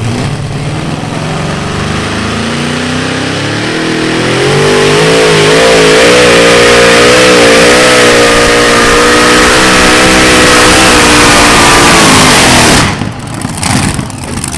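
Heavy vehicle engine revving up over about five seconds, then held at high revs with a slightly wavering pitch, before the sound drops away suddenly near the end.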